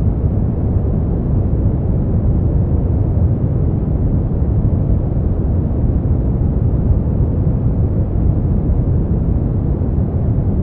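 Continuous generated noise of a sleep-aid track: a steady, deep rumbling hiss, strongest in the bass with little high-pitched hiss, unchanging throughout.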